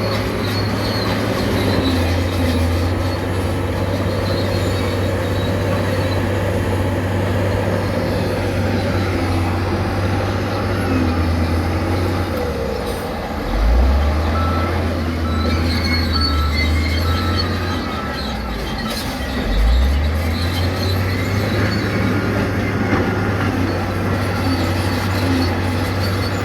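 Diesel engine of a heavy earthmoving machine working, its low drone dropping and surging again twice, about halfway and about three-quarters of the way through. Thin, high metallic squeals come and go above it.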